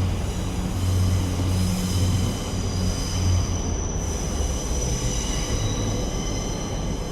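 Northern Rail Class 142 Pacer diesel railbus moving through the station: a low diesel rumble that eases off after about three and a half seconds, under a steady high-pitched squeal of wheels on the rails.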